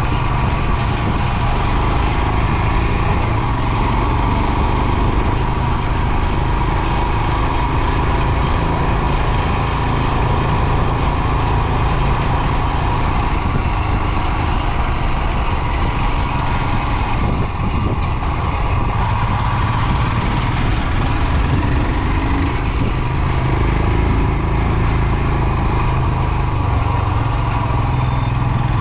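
Royal Enfield Himalayan's 411 cc single-cylinder engine running steadily while the bike is ridden, with a heavy rush of wind on the microphone.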